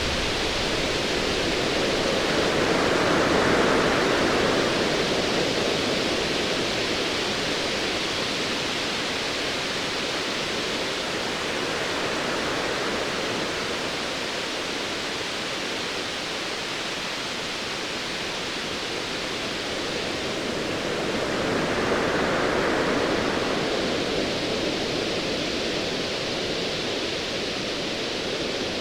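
Ocean waves: a steady wash of surf that swells twice, about three seconds in and again a little after twenty seconds.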